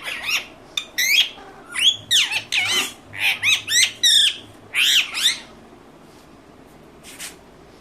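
Ringneck parrot squawking: a rapid run of shrill, screechy calls for about five seconds, then one faint call near the end.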